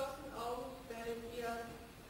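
A person's voice making held, steady-pitched sounds, two drawn-out tones with a short break between them.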